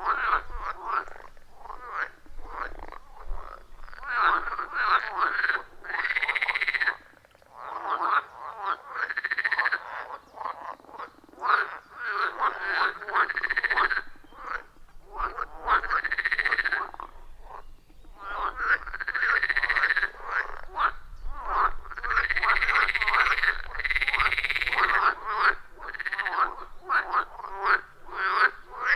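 A chorus of many frogs calling at once from a pond: dense, overlapping rapid croaks, with louder drawn-out calls standing out every few seconds.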